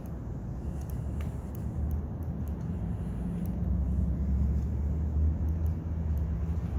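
A vehicle engine running with a low rumble that grows louder from about halfway through.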